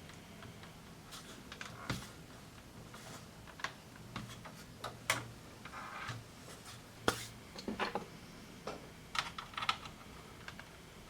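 Irregular clicks and light knocks of small plastic parts of the Casio SA-75 keyboard being handled, at an uneven pace with short pauses.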